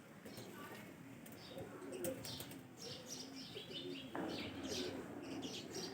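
Birds calling: many short, high chirps over lower calls, with a sharp click about two seconds in.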